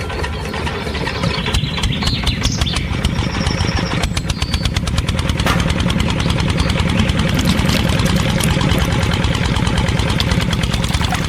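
Small engine running steadily with a fast, even chugging, picking up about a second and a half in.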